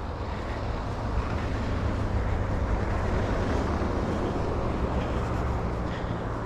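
Road traffic going by: steady engine and tyre noise with a low drone, a faint engine tone rising out of it for a couple of seconds midway.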